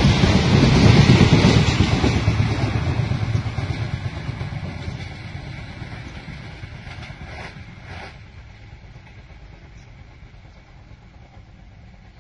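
Passenger train's coaches rumbling past on the track, then fading steadily as the train runs away into the distance. Two faint knocks come about eight seconds in.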